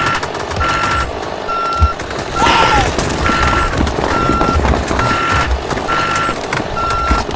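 Truck reversing alarm beeping steadily, about one beep a second, over low engine noise.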